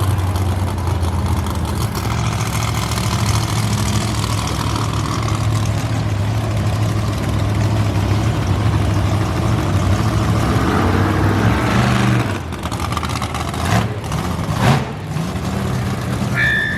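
Monster truck engines running at a steady low idle, their note dropping away about twelve seconds in, followed by two short, sharp sounds.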